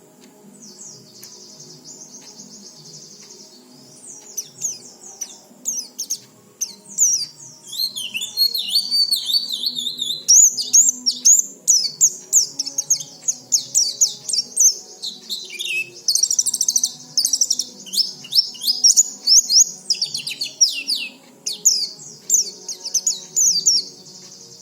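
White-eye (pleci) singing a rapid, high-pitched twittering song. The song is soft at first, then gets louder and busier about four seconds in.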